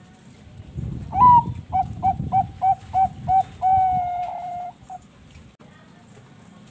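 Zebra dove (perkutut bangkok) singing: a first note that rises and falls, then about seven quick, evenly spaced coos, ending in one longer held note.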